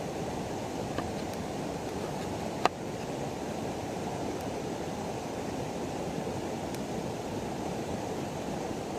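River water running steadily, with a faint click about a second in and a sharper one near three seconds.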